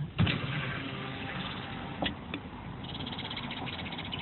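Small birds chirping in a fast, high twitter that starts about three seconds in, over a steady low rumble with a few light clicks.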